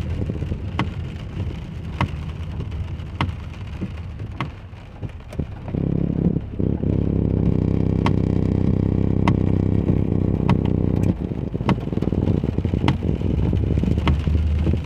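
Inside a car driving in the rain: steady engine and road noise that swells about six seconds in, with a light click repeating a little more than once a second.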